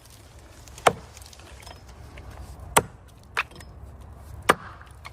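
Axe chopping into a cedar trunk: three sharp strikes roughly two seconds apart, with a lighter knock between the last two.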